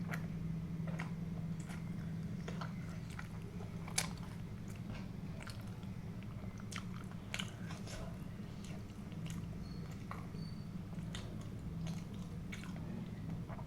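Close-miked mouth sounds of a person chewing and biting food, with irregular wet clicks and small crunches, the sharpest about four seconds in. A steady low hum runs underneath.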